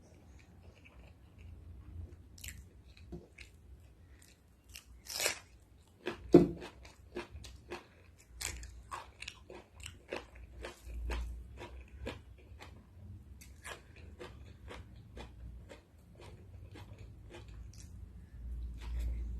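A person chewing and biting food close to the microphone: a steady run of short crunches and mouth clicks, with a sharper, louder bite about six seconds in.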